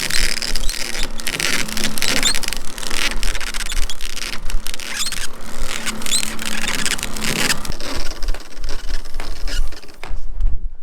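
A sailing catamaran under way: a steady rush of water and wind noise with scraping and small squeaks over a faint hum. It drops away sharply about seven and a half seconds in, leaving mostly low wind rumble.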